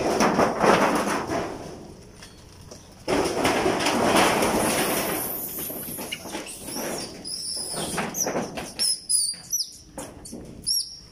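Two stretches of broad, rustling noise in the first half, then a series of short, high chirps from small birds over the last few seconds.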